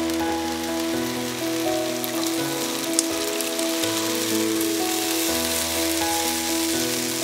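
Spinach and tomato sizzling in a wok on a gas flame, under background music of sustained chords. A short click comes about three seconds in.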